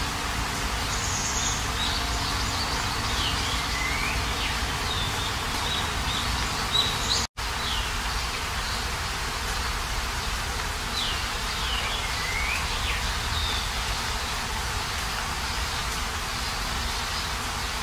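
Steady rainfall hiss with birds chirping through it, short sliding chirps in a cluster a few seconds in and again past the middle. The sound cuts out for a split second about seven seconds in.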